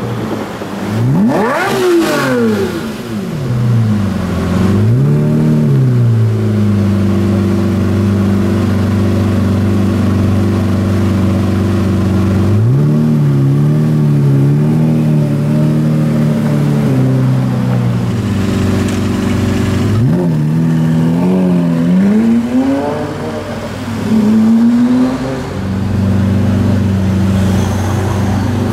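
Lamborghini Murcielago LP670-4 SV's naturally aspirated V12 revving and idling. A sharp rev about a second in climbs and falls away, then several more quick blips rise and drop back between spells of steady idle.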